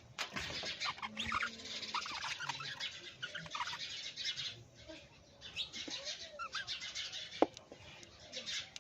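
Several parrots chirping and chattering in quick, overlapping short calls, with one sharp click about seven seconds in.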